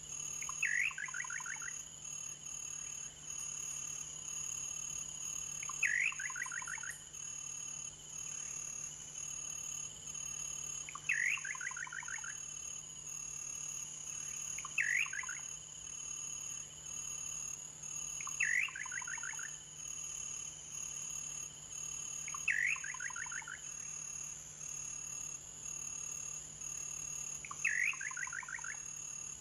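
A bird calling seven times, a few seconds apart; each call is a sharp rising note followed by a quick run of falling notes. Under it runs a steady high-pitched drone of insects.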